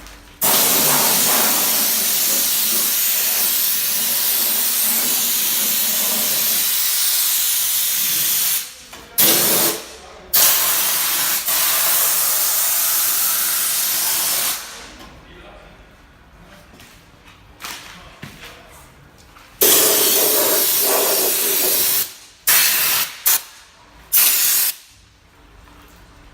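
Compressed air hissing from a nozzle in long blasts of several seconds each, then a few short bursts near the end.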